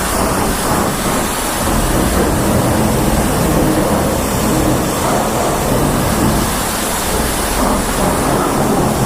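Self-serve car wash high-pressure rinse wand spraying water onto a motorcycle: a steady hiss and spatter of water.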